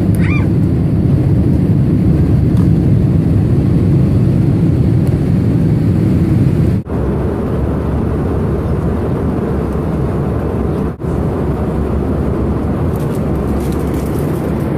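Steady low rumble of a moving vehicle, broken twice by brief cuts.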